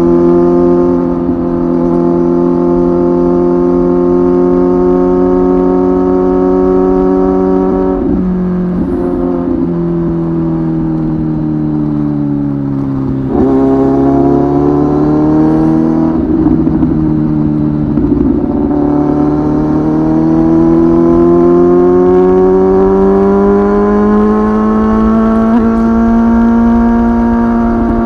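Kawasaki ZX-10R's 998 cc inline-four engine breathing through an aftermarket titanium muffler, heard from onboard while riding. It holds steady revs, drops off about eight seconds in and falls in pitch as the bike slows, jumps up briefly at about thirteen seconds, then climbs slowly and steadily in revs over the last ten seconds.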